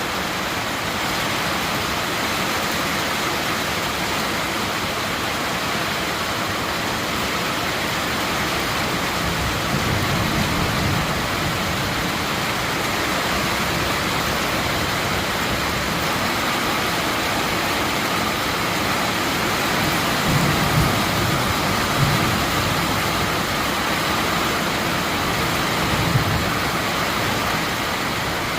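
Heavy rain falling steadily, a dense even hiss, with a few low rumbles about a third of the way in and again in the last third.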